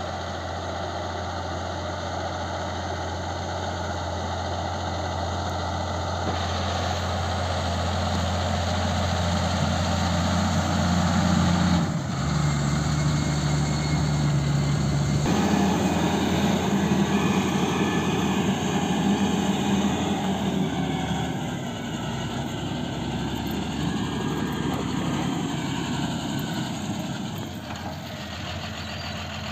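Claas Arion 620 tractor's six-cylinder diesel engine running steadily. The engine note jumps abruptly twice, about twelve and fifteen seconds in.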